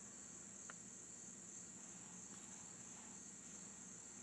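Faint, steady, high-pitched trilling of crickets, with one soft click about two-thirds of a second in.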